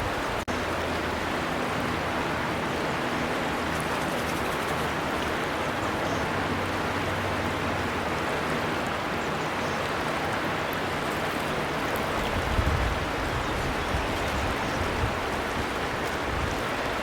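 River water flowing steadily, a continuous rushing hiss, with a momentary cut-out about half a second in.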